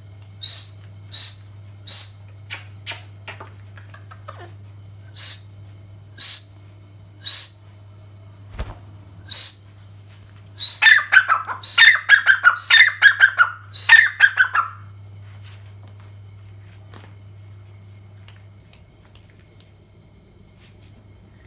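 Partridge calling: short, sharp high notes about once a second, then a loud rapid run of calls lasting about four seconds, after which it falls silent.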